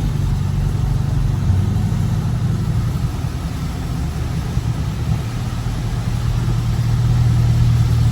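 Dodge Scat Pack's 6.4-litre HEMI V8 running at a steady low drone while driving, with a light road hiss over it; the engine note dips a little in the middle and grows louder near the end.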